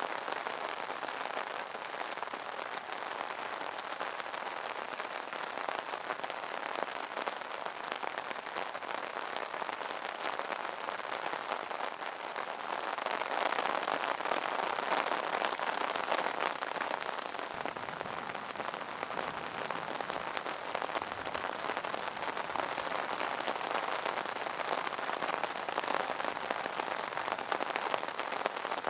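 Steady rain falling on an umbrella canopy: a dense patter of many small drop ticks. It swells a little louder about halfway through.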